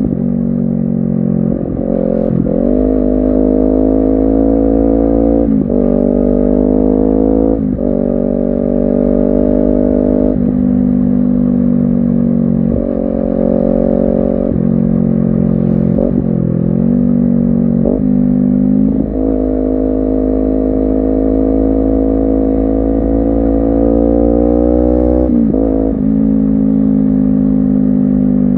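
Honda CBR250RR parallel-twin engine through an aftermarket racing exhaust, under way. Revs climb steadily in each gear and drop suddenly at about ten gear changes, with a few quick rises and falls of revs near the middle.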